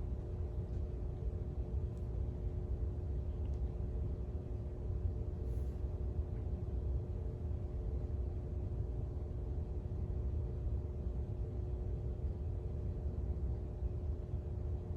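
Steady low rumble with a constant hum running under it and a few faint ticks.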